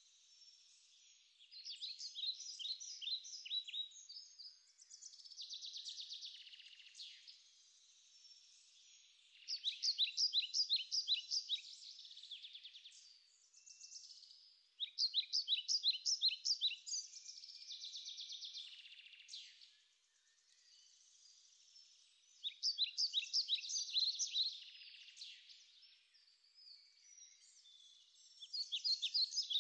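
Songbird singing: bright phrases of rapid repeated notes, about every six or seven seconds, with softer twittering between them.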